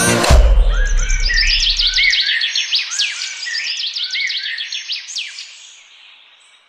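Music stops just after the start, its low bass note ringing on for about two seconds. A songbird sings a fast series of quick downward-sweeping notes, repeated phrase after phrase, fading out near the end.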